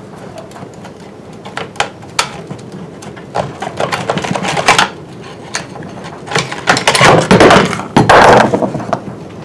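Hand tools and chainsaw parts clicking and clattering as the bar and chain are worked off a chainsaw, with a few single clicks and then two longer runs of rattling metal-and-plastic handling.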